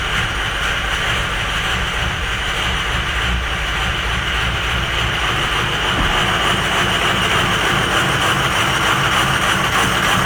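Ford 6.0 Powerstroke V8 turbodiesel engine running steadily, with a continuous low rumble.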